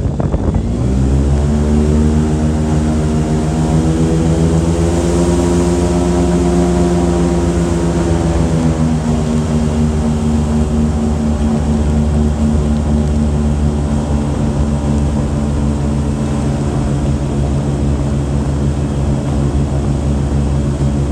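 An engine speeding up just after the start and then running steadily, its pitch creeping up and then settling a little lower about nine seconds in.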